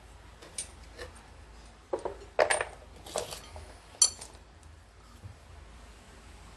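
Glaze-fired ceramic pieces clinking and knocking against each other as pottery is unloaded from a wood-fired kiln. A handful of separate clinks, with a short cluster about two seconds in and the sharpest clink about four seconds in, ringing briefly.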